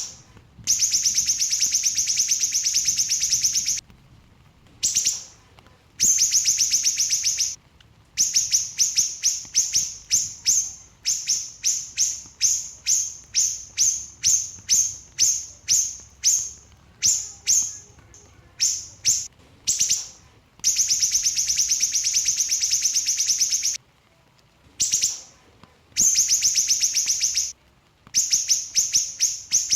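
A small siri-siri bird singing in rapid-fire bursts. Dense, fast trills last a few seconds each, between runs of quick separate notes, with short pauses in between.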